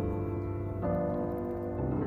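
Soft background piano music, sustained chords with a change of chord about a second in.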